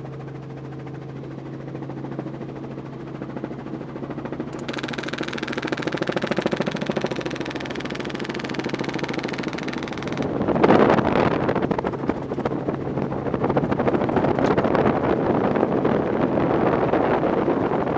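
Helicopter running in flight, a steady engine and rotor drone; about ten seconds in, loud wind rush on the microphone joins it and stays.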